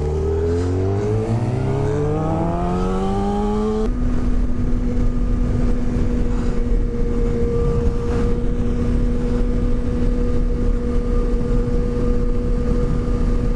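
Suzuki GSX-R 750's inline-four engine, fitted with an Akrapovic slip-on exhaust, accelerating with its pitch rising for about four seconds, then holding one steady pitch at constant speed. Wind rushes over the helmet microphone throughout.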